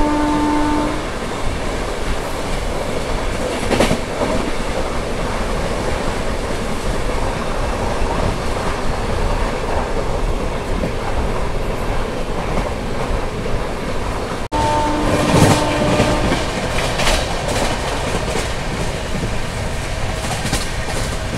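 Express passenger train running at high speed, heard from inside a coach: a continuous rumble and rush of wheels on rail, with bursts of clattering over track joints and points about four seconds in and again in the second half. A short horn note sounds at the start and again about fifteen seconds in.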